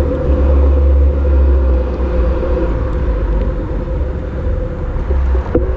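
A steady low rumble with a constant droning hum over it, and a few faint clicks near the end.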